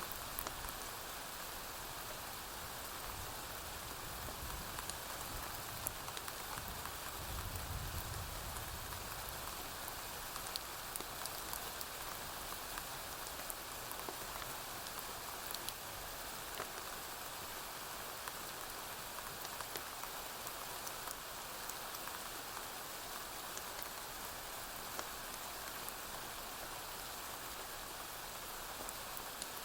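Steady rain falling on a porch roof, with scattered sharp crackles from a wood fire. A low rumble of distant thunder swells and fades about five to nine seconds in.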